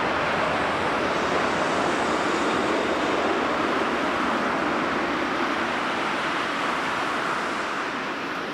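Jet airliner engines, a loud steady rush of jet noise from a large passenger or cargo jet close by, slowly fading over the last couple of seconds.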